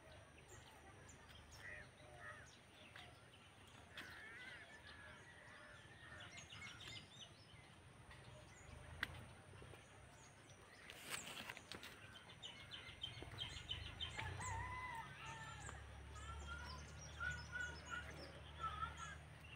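Faint birdsong: many short chirps and calls from several birds overlapping. A low rumble comes in through the second half.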